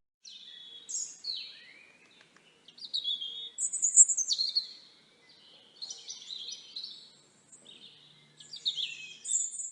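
A songbird singing a series of short, high, quick-changing phrases with brief pauses between them: a stock recording of birdsong on a clean, quiet background.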